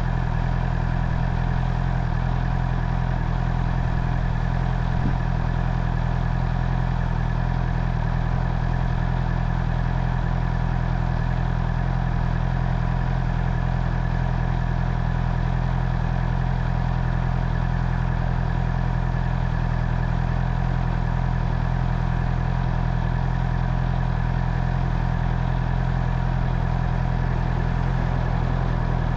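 Honda CB650R's inline-four engine idling, running at a steady, unchanging pitch.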